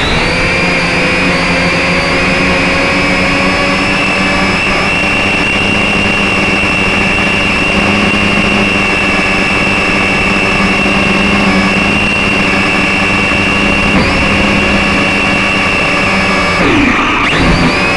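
Syma X5SC quadcopter's small electric motors whining steadily, with a brief dip and rise in pitch near the end as the throttle changes. A low rumble of wind on the microphone runs underneath.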